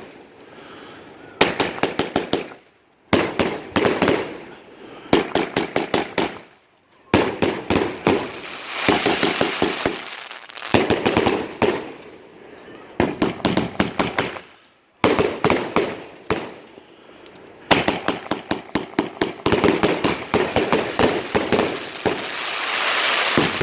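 A 230-shot Monster Truck finale cake firing in rapid volleys of sharp shots, with short pauses between volleys. The shots are mixed with spells of crackling from the bursting shells.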